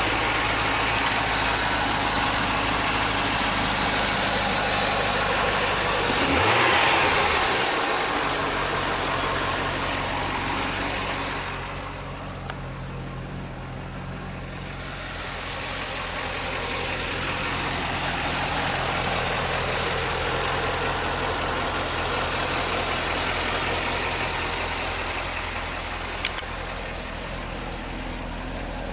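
2008 Chevrolet Corvette's 6.2-litre LS3 V8 idling steadily, with one brief rise in engine pitch about six and a half seconds in.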